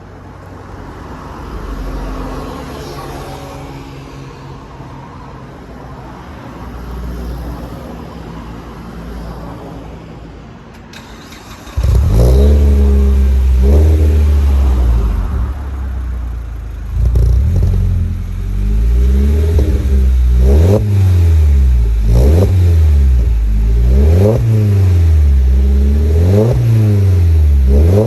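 Alfa Romeo Brera's 2.2 JTS inline-four engine, fitted with an aftermarket Arqray muffler, blipped repeatedly from idle. Its pitch rises and falls with each blip, about one a second in the second half. The first ten seconds or so are a quieter, steadier engine sound, and the exhaust gets suddenly much louder about twelve seconds in.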